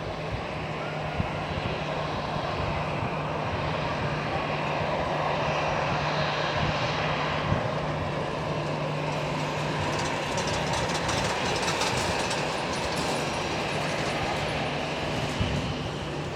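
Airbus C295M's turboprop engines running steadily on the ground: a continuous low hum with a broad rushing roar over it.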